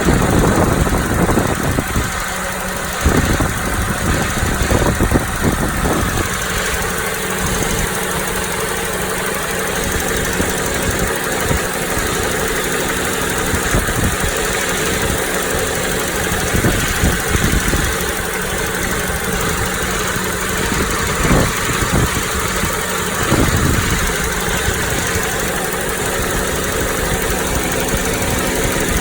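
60-series Toyota Noah engine idling with an abnormal rattle (not a ticking), which the owner places in the middle of the engine rather than at the alternator. Wind blows across the microphone.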